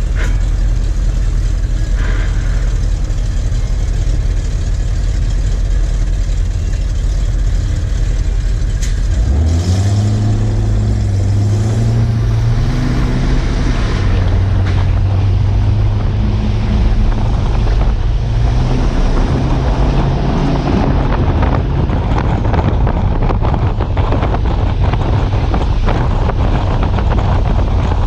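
Heavy truck engine running as a low rumble, then revving and working under load from about a third of the way in, its note rising and falling for several seconds before fading into a noisier rumble.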